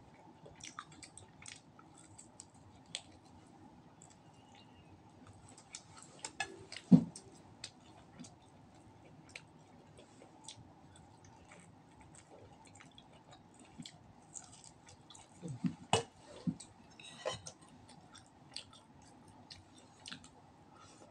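Chewing and eating sounds of someone eating roast duck with their fingers: scattered small clicks and smacks. There is one sharp knock about seven seconds in and a few louder knocks around sixteen seconds.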